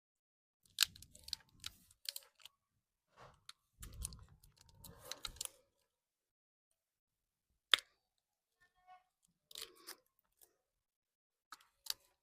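Scattered sharp clicks and knocks with short stretches of rustling handling noise. They come in clusters about a second in, around four to five seconds in, and near the end.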